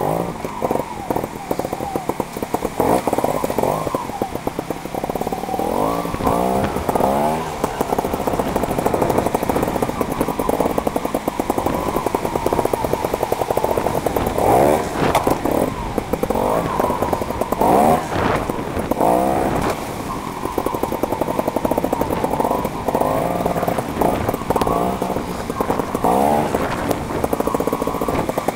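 Trials motorcycle engine heard from on the bike, revving up and dropping back again and again as the throttle is worked over rough rock.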